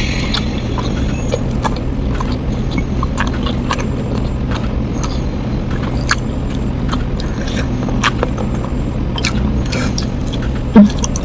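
Close-up chewing and crunching of crispy fried snacks, with scattered sharp crunches, over a steady low hum. A loud thump near the end.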